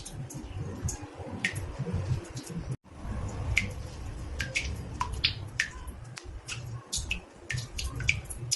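Water drops falling into a bathtub, each a sharp plink, some with a quick falling pitch, coming irregularly about a dozen times over a low steady rumble. The sound cuts out for an instant about a third of the way in.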